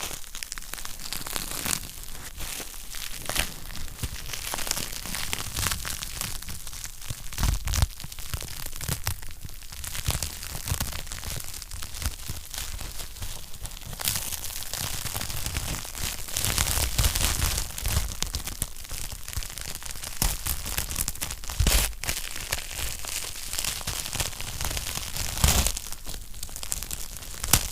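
Wood fire crackling and popping steadily in a fireplace, with dense small snaps and a few much louder pops.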